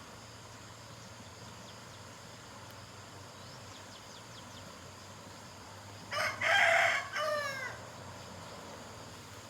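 A rooster crows once, about six seconds in: a short opening note, a long held note, then a falling tail. Behind it runs a steady faint hiss.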